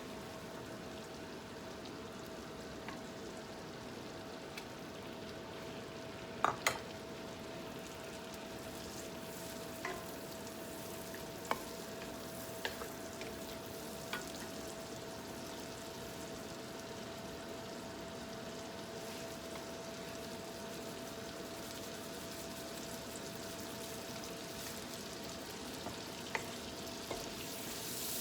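Food sizzling steadily in a frying pan, with occasional sharp clicks of a utensil against the pan, two in quick succession about a third of the way in, and a faint steady hum underneath.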